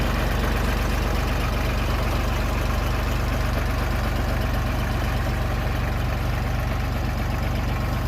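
A vehicle engine running steadily at one speed, with a fast even pulse and no change in pitch.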